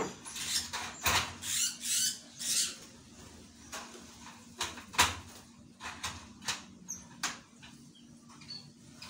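Rustling and scratching as a small bird is handled and moved from a cage into an aviary, busy for the first few seconds, then a scattering of light clicks and knocks with a few faint, very short high chirps.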